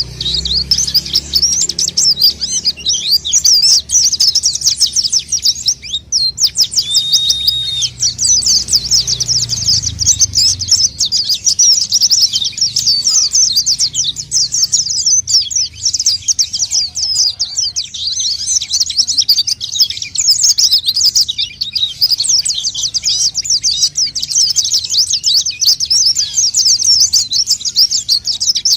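White-eyes (pleci) singing as a lure call: a dense, unbroken stream of rapid high twittering chirps. There is a brief break about six seconds in, followed by a short steady whistle.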